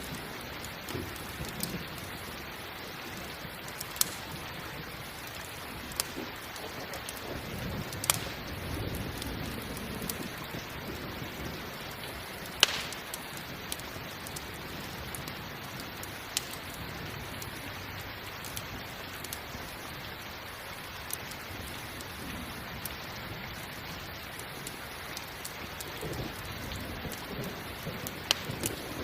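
Steady rain with a campfire crackling through it, giving sharp single pops every few seconds. Low rumbles of distant thunder swell twice, once about a third of the way in and again near the end.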